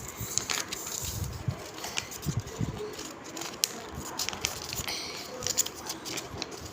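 Sheet of paper rustling and crinkling as it is folded and creased by hand, with irregular sharp crackles and a few soft low thumps.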